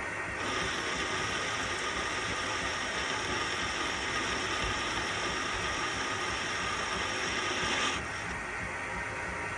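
Metal lathe running while a cut is taken on a model engine's connecting rod: the cutting sound, a hiss with a high steady whine over the machine's hum, starts about half a second in and stops about eight seconds in, leaving the lathe running.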